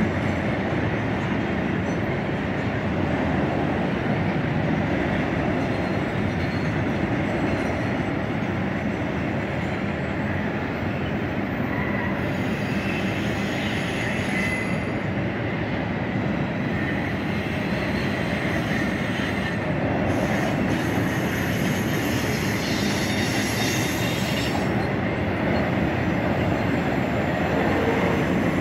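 Double-stack intermodal freight cars rolling steadily across a steel truss railway bridge: a continuous loud rumble and clatter of wheels on rail, with a faint high wheel squeal now and then.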